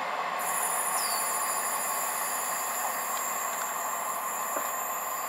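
Class 158 diesel multiple unit running away along the track: a steady, even hum of engine and wheels on rail. A thin, high steady tone sets in about half a second in.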